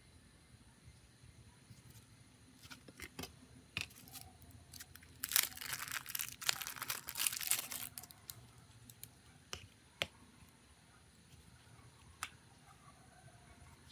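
Close handling noise: scattered sharp clicks and taps, with a few seconds of crinkling, tearing noise about five seconds in.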